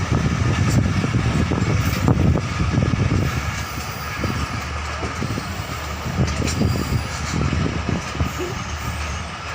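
Passenger train running on the track: a steady low rumble with the carriage rattling and clattering, easing a little after about four seconds.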